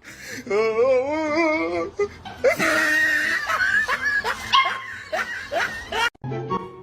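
A dog vocalising in wavering, drawn-out sounds while people laugh. The clip cuts off about six seconds in and music begins.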